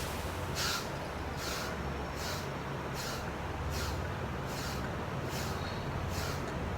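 A person breathing forcefully in a steady rhythm, one sharp exhalation about every 0.8 seconds, while doing a counted set of exercise repetitions. A steady low hum runs underneath.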